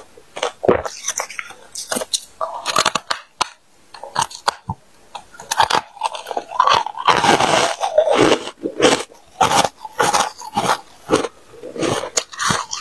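Close-up biting and chewing of freezer ice: a quick, irregular run of sharp crunches, densest around the middle.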